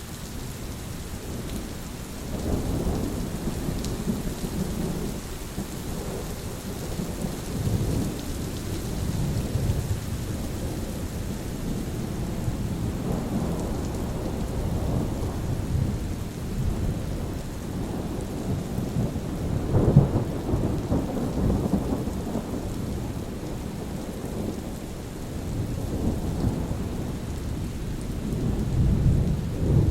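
Steady rain with thunder rumbling on and off throughout, its loudest peal about two-thirds of the way in and another swell near the end.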